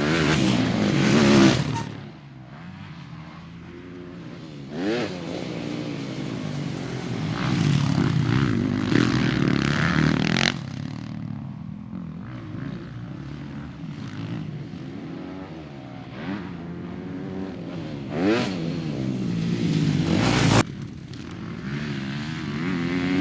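Motocross bikes running on a dirt track, their engines revving up and falling back as they accelerate and shift. The sound changes abruptly a few times, from one bike or shot to another.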